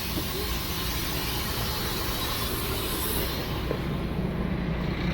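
City bus running, heard from inside the cabin: a steady low engine and road rumble, with a low engine note coming up near the end.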